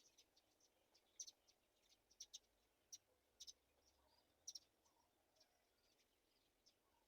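Near silence broken by faint, short, high-pitched chirps and ticks, about a dozen at irregular intervals, the strongest about a second in and again a little past the middle.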